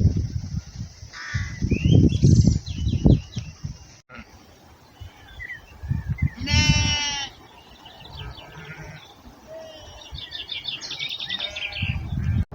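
A sheep bleats once, a single drawn-out call about halfway through, with small birds chirping at intervals and a low wind rumble on the microphone at the start.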